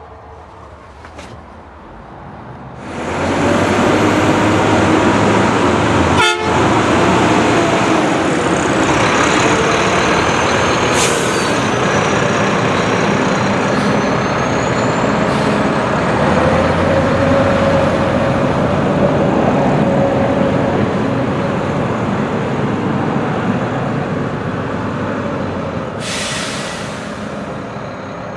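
Heavy truck engine starting up about three seconds in and then running loud and steady, with a sharp click a few seconds later.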